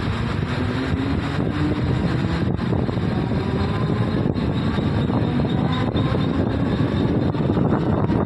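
Mumbai suburban electric local train running, a steady loud rumble of wheels on track with a faint whine that climbs gently in pitch as it picks up speed.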